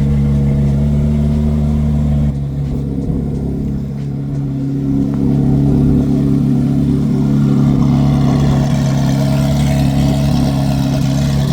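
2024 Corvette C8 Z06's 5.5-litre flat-plane-crank V8 idling through its straight-piped exhaust with the exhaust valves open. Its level dips and its tone changes about two seconds in, then it comes back up a few seconds later.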